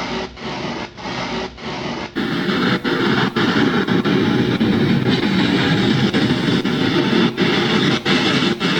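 Loud white noise from an EVP recorder app played through a Bluetooth speaker, choppy with frequent brief dropouts. It grows louder and brighter about two seconds in.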